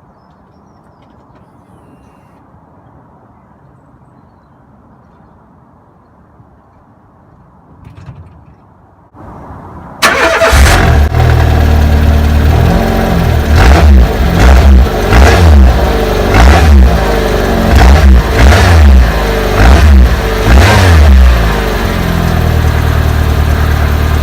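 A Peugeot 106 with an upgraded aftermarket exhaust, heard at the tailpipe: after several seconds of quiet it cranks briefly and fires up loudly about ten seconds in. It is then revved repeatedly, about eight quick blips in a row, before settling back to idle.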